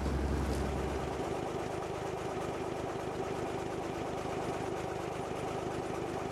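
Fishing boat's engine running steadily at idle. A deep low hum drops away about a second in.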